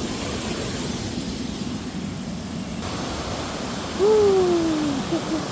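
Waterfall rushing steadily. About four seconds in, a drawn-out call falls in pitch over about a second.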